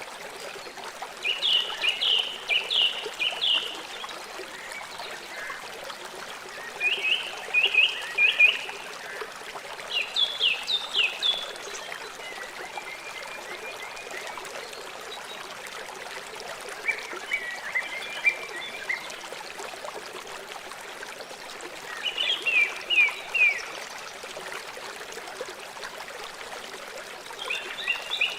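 River water flowing in a steady rush, with an animal giving short runs of quick, high chirps about every five seconds, six times.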